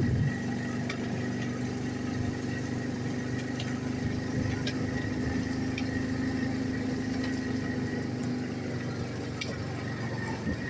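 ATV engine running at a steady, even speed, with a few faint light clicks over it.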